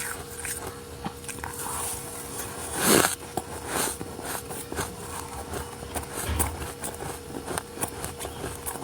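Freezer frost being bitten and chewed close to the microphone: many irregular crisp crunches, with one louder crunch about three seconds in. A faint steady hum runs underneath.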